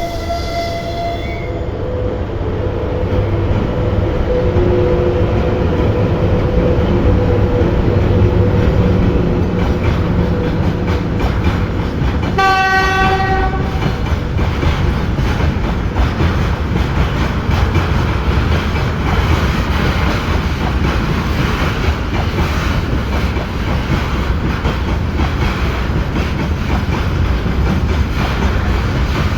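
Freight train running past with a steady rumble and wheels clacking over rail joints. The locomotive's horn sounds briefly at the very start and again in one short blast about twelve seconds in.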